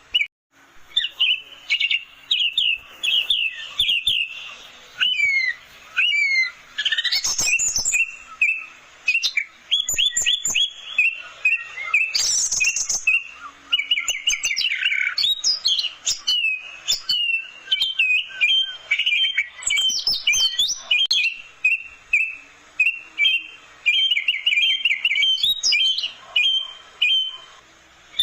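Orange-headed thrush singing a rapid, nearly continuous song of quick repeated notes in fast runs, with occasional higher sweeping notes.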